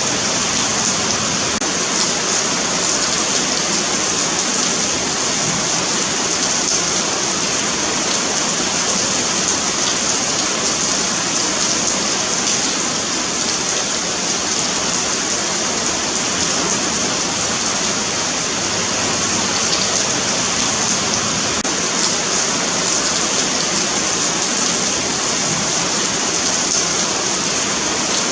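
Steady rain falling on a paved sidewalk: a continuous even hiss of drops pattering on the concrete.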